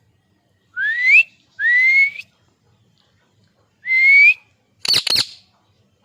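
Ring-necked parakeet whistling: three rising whistles, each about half a second long, followed about five seconds in by a quick run of sharp, harsh clicks.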